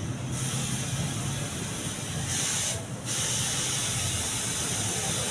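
A steady hissing spray, broken off briefly about three seconds in and then resumed.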